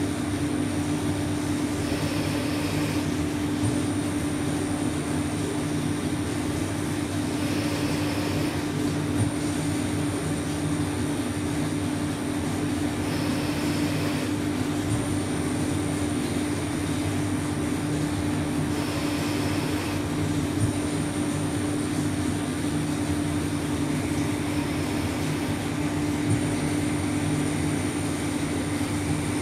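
Weiler 160 CNC lathe running steadily while turning a threaded nipple, with a constant hum and a thin high whine. About every five to six seconds a brief burst of higher-pitched noise lasting about a second rises over the hum.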